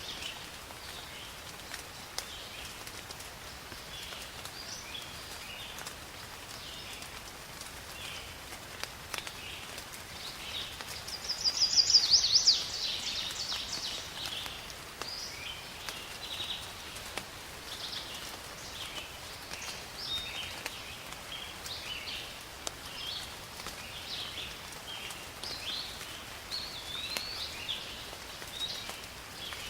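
Steady rain hiss with scattered drop ticks, and many birds calling through it in short, high chirps. About twelve seconds in, one bird close by gives a louder, rapid trilling call.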